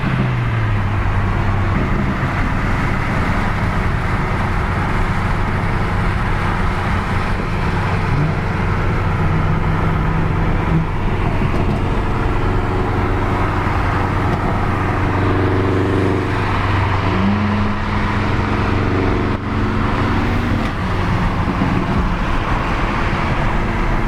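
Car engine running steadily at a low idle over a loud noise of traffic, with its pitch stepping up and holding briefly a few times, about 8 s in and again around 17 to 20 s.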